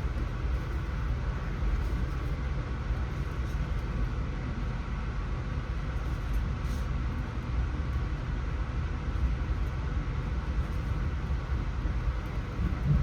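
Steady low rumble of a moving Amtrak passenger train, heard from inside the car.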